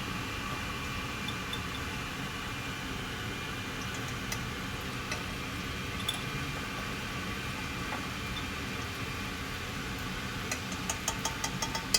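Steady background hum and hiss, with a few faint clicks and a quick run of light taps near the end.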